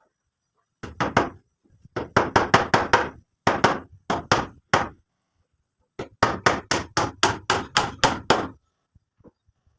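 Hammering: quick runs of sharp hammer blows, about four to five a second, broken by short pauses.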